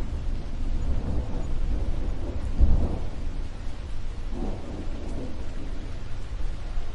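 Thunder rumbling through a steady fall of rain, swelling to its loudest about three seconds in, with a smaller swell later, then easing off.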